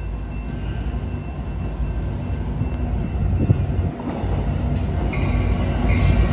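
EMD F59PHI diesel locomotive hauling an Amtrak Capitol Corridor train into the station, its engine and rolling rumble growing louder as it approaches. A high squeal comes in near the end.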